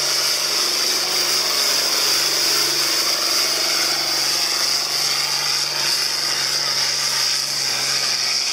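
Diesel tractor engine running hard under full load, pulling a weight-transfer sled down the track; a steady, loud sound with no letup.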